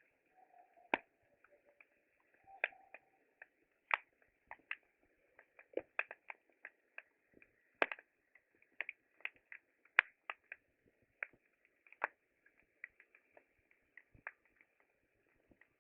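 Wood campfire crackling: irregular sharp pops and snaps, a few louder ones among many small ones, over a faint hiss.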